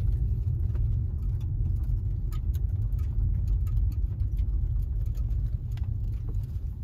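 Car coasting with its engine dead: a steady low road and tyre rumble heard from inside the cabin, with scattered light clicks.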